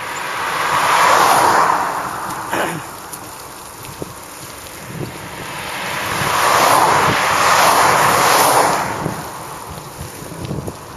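Road traffic passing: two vehicles go by, each a rush of tyre and engine noise that swells and fades, the second one longer, with a few faint clicks in between.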